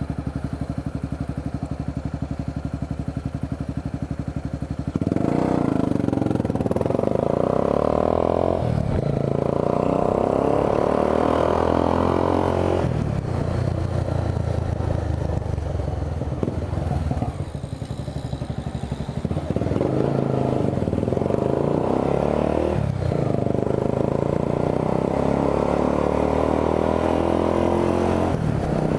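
Honda CB 300's single-cylinder engine ticking over steadily for about five seconds, then pulling away and accelerating, its revs rising and dropping several times as the rider works the throttle and gears.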